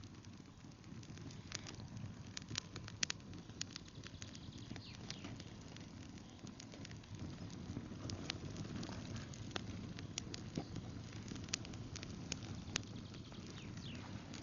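Campfire of twigs and brushwood burning, with irregular sharp crackles and pops over a steady low rumble.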